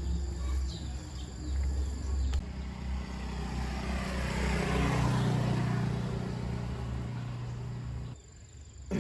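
A motor vehicle engine running, its sound swelling to a peak around the middle and then cutting off suddenly near the end.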